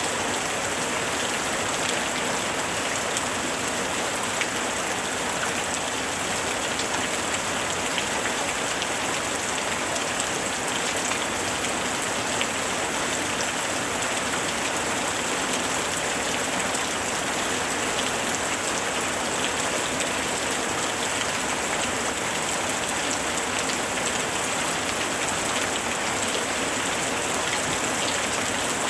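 Steady rain falling on a surface, an even hiss with dense fine patter of drops.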